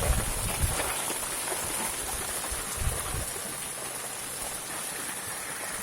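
Hail and rain falling steadily on a moored sailboat, an even patter throughout, with a couple of dull low thumps at the start and about three seconds in.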